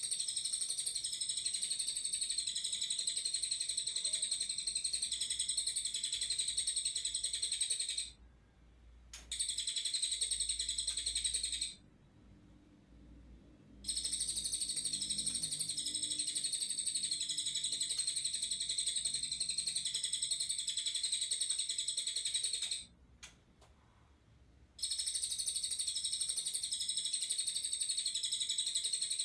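Young white-rumped shama singing in long unbroken runs of rapid, high-pitched twittering, four runs that each start and stop abruptly with short quiet gaps between.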